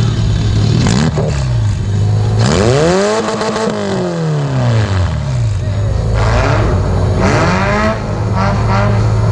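Demolition-derby car engine with an open exhaust stack idling roughly, then revved up and let back down, once at length and again more briefly.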